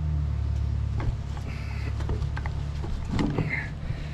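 A steady low mechanical hum from a running motor, with a few scattered clicks and light knocks over it.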